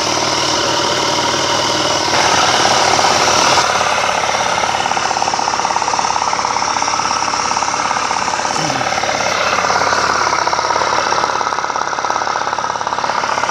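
Peugeot Trekker 50cc two-stroke scooter engine running just after a cold start, with a fast, rattly firing rhythm. Its sound steps up about two seconds in and falls back a moment later, then shifts again further on.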